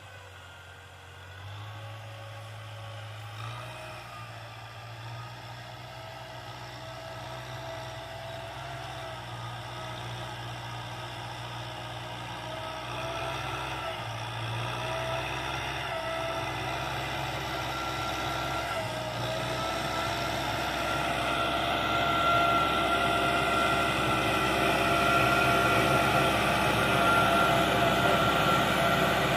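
Tractor engine running steadily while plowing, with a slightly wavering whine above the engine note, growing louder throughout as the tractor comes closer.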